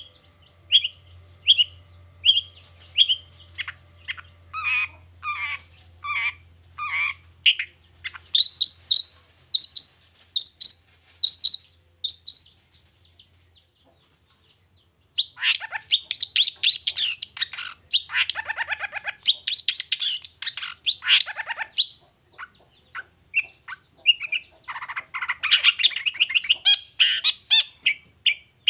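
Long-tailed shrike (cendet) singing: runs of short repeated calls, about two a second, each run at a different pitch. After a pause of about two seconds midway, the song turns to fast, dense chattering.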